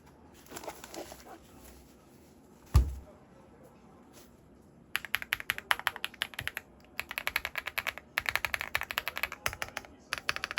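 Typing on a WOB Crush 80 tenkeyless mechanical keyboard: fast runs of key clacks with short pauses, starting about halfway in. A single heavy thump comes about a quarter of the way in.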